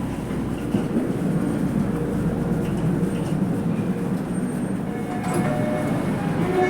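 Inside a running subway train car: steady rumble of the car running on the rails. About five seconds in, faint whining tones come in over it.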